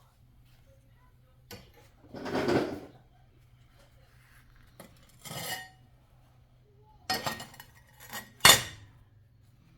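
Metal parts being handled, knocking and clinking together several times, some with a short ringing tone, the loudest a sharp clank near the end.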